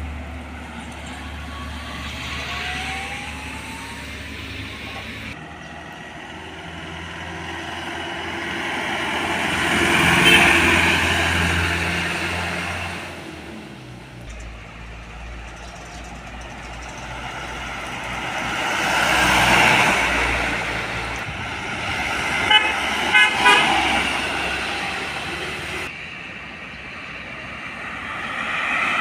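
Trucks and buses passing close by on a road, each swelling and fading, with a vehicle horn tooting about three short times in quick succession a little past two-thirds of the way through.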